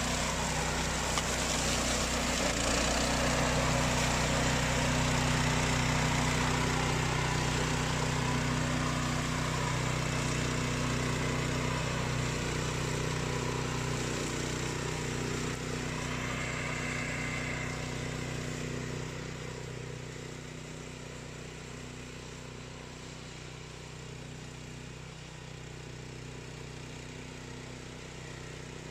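Remote-control flail mower's engine running steadily, with a whirring noise over the engine note. About two-thirds of the way through it gets quieter and duller.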